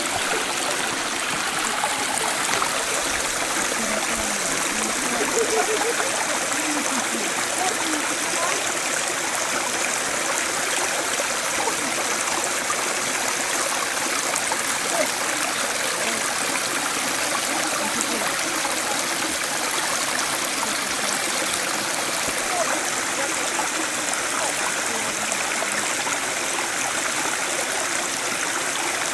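A stream running steadily.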